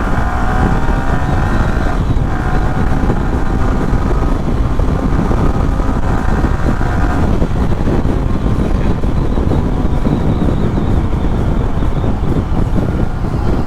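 Yamaha R15 V3's 155 cc single-cylinder engine accelerating under throttle, its pitch climbing, with a short break about two seconds in as it shifts up. After about seven seconds the engine tone fades under heavy wind noise.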